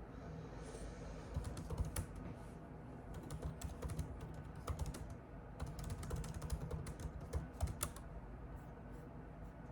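Typing on a computer keyboard: irregular runs of key clicks that thin out near the end.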